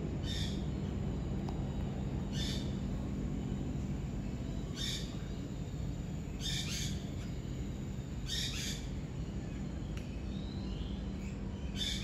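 A bird calling repeatedly, about six short high calls roughly every two seconds, some of them doubled, over a steady low hum.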